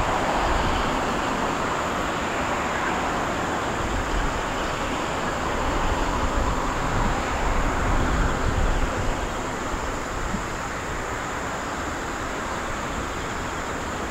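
General Electric CF6 turbofan engines of a Boeing 767-300, a steady jet engine noise that slowly fades, with wind rumbling on the microphone.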